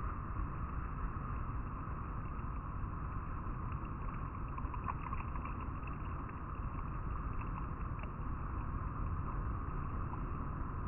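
River water flowing and rippling over rocks, a steady rushing.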